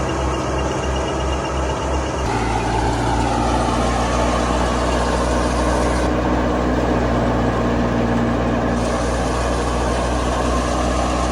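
Massey Ferguson 385 tractor engine running steadily under load while belt-driving a mustard thresher, the thresher's drum adding a whirring drone. About two seconds in, a low pulsing throb gives way abruptly to a steadier, fuller drone.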